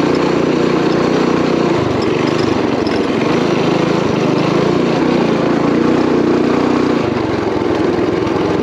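Small single-cylinder mini bike engine running under throttle while riding a rough trail, heard loud and close with rushing wind and rattle; the engine speed eases slightly about seven seconds in.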